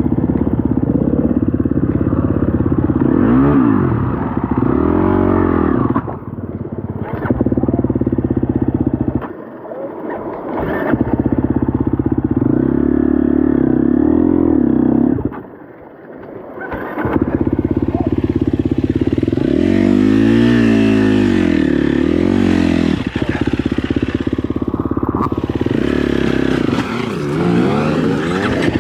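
Dirt bike engine revving up and down under riding, the throttle opened and closed again and again, with the pitch rising and falling. Twice, about nine and sixteen seconds in, the engine note drops off briefly before picking up again.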